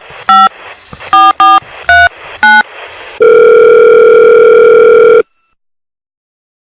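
Phone keypad beeps, about six quick presses as a number is dialled, then the line's ringing tone: one steady tone of about two seconds that stops dead, followed by silence.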